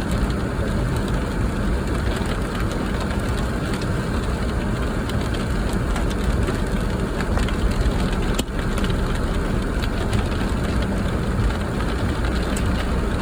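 Steady low rumble of a car on the move in a storm, with scattered sharp ticks of rain striking the bodywork.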